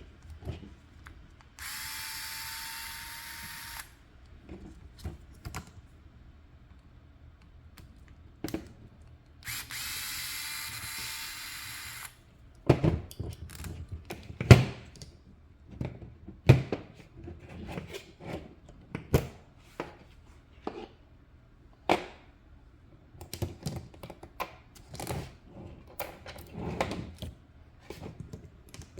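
Power screwdriver running twice for about two to three seconds each, backing out screws during an RC car teardown, followed by many small clicks and knocks of plastic parts and screws being handled.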